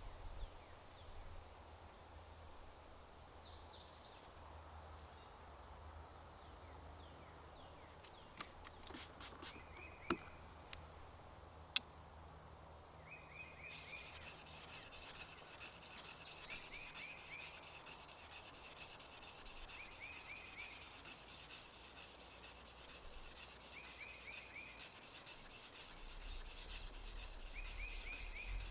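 A bird repeats a short chirped phrase every few seconds over a quiet background with a few sharp clicks; about halfway through, a steady rasping of a tool working the wood timber starts and carries on under the bird's calls.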